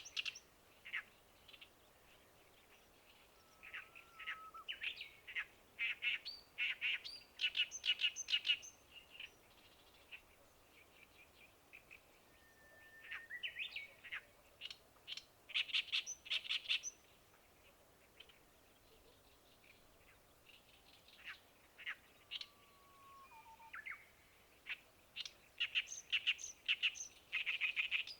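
Songbird singing in repeated phrases of rapid chattering notes, each phrase lasting a second or two with pauses of a few seconds between, and a few short gliding whistles from another bird in between.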